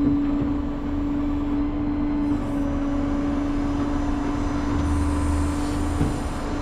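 Heavy-duty tow truck running at idle: a steady droning hum over a low engine rumble.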